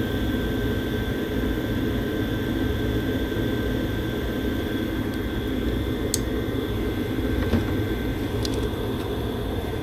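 Gas furnace running, a steady mechanical whir with a thin high whine over a low rumble, and two light clicks about six and eight and a half seconds in.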